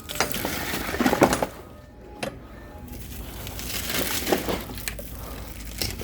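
Split firewood logs knocking and clattering against each other as they are handled, with several sharp knocks.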